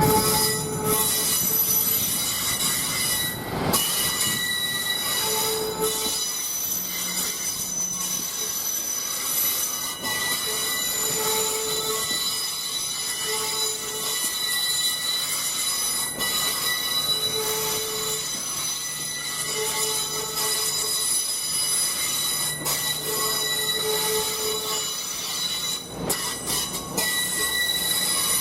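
LNER Class 800 train moving through the station, its wheels squealing on the rails with several high ringing tones held throughout. A low steady hum runs underneath, and a mid-pitched squeal note comes and goes every couple of seconds.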